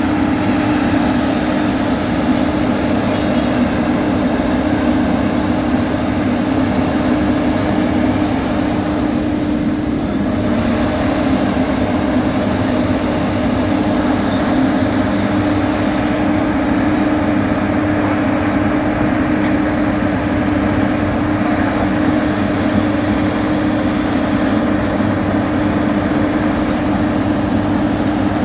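Heavy diesel road-construction machinery running steadily at paving work, a constant engine hum with a strong unchanging tone.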